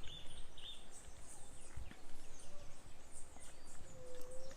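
Birds chirping over a rumble of wind on the microphone.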